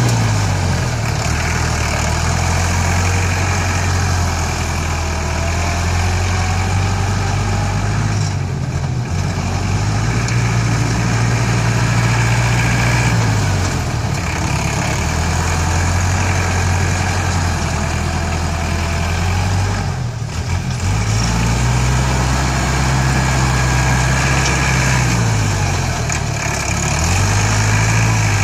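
ISEKI NT554 tractor's diesel engine running, its pitch rising and falling in several slow swells a few seconds long, with two brief drops in level.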